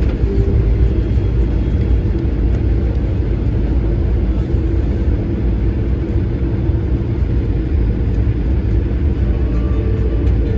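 Steady low rumble and hum inside the cabin of an Airbus A220-300 with its Pratt & Whitney PW1500G geared turbofans running, with no change in pitch or level.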